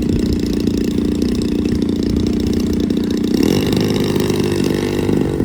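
Gas-powered RC plane's small two-stroke engine, the same kind of motor as a weed eater, running steadily. Its tone shifts about three seconds in. Wind rumbles on the microphone underneath.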